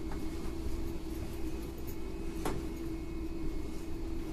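Interior running sound of a Tokyo Metro 9000-series electric train under way, a steady hum and rumble. A single sharp click comes about halfway through.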